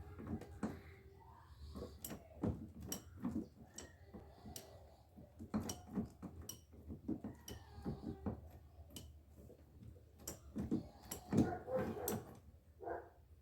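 Irregular metallic clicks and knocks of a wrench working on a 22 mm suspension bolt to loosen it.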